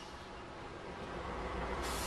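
Diesel locomotive pushing a wedge snow plow through deep snow as it approaches: a steady low rumble with a rushing noise over it, growing louder toward the end.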